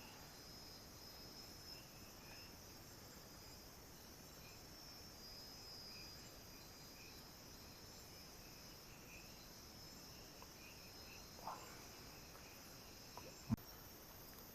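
Faint night chorus of crickets and other insects trilling steadily at a high pitch, with a single sharp knock near the end.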